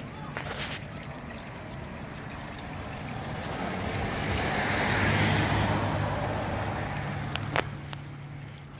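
Water rushing steadily from a leaking water line, with a wash of noise that builds to a peak about five seconds in and fades again.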